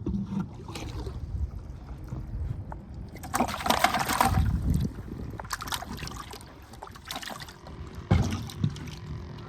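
Water splashing and trickling, with a loud burst of splashing about three and a half seconds in and a shorter one near the end.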